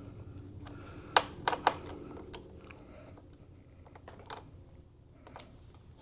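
Scattered small, sharp clicks and taps of computer parts being handled and fitted inside an opened iMac, with three louder clicks in quick succession a little over a second in.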